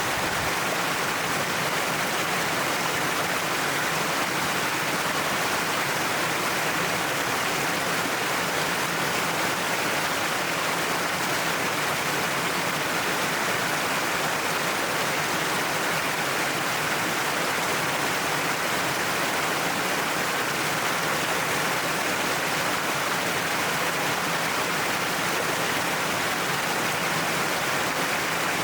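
Waterfall: a steady rush of falling water splashing down a cliff face.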